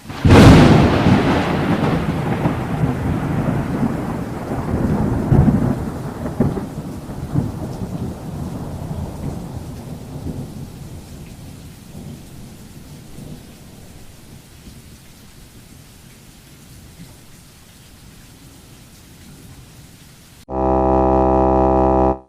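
A thunderclap that cracks suddenly, then rolls and rumbles, fading away over about ten seconds to a faint hiss. Near the end a steady low buzzing tone sounds for about two seconds and cuts off.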